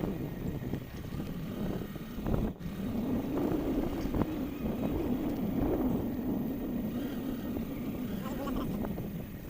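A vehicle engine running steadily, with a wavering drone. It breaks off for a split second about two and a half seconds in.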